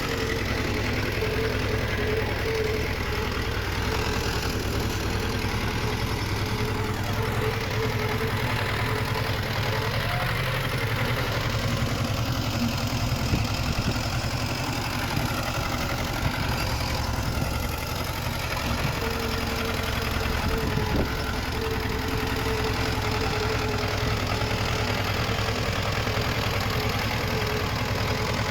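Heavy-equipment diesel engine running steadily, with a thin whine that fades out and returns partway through.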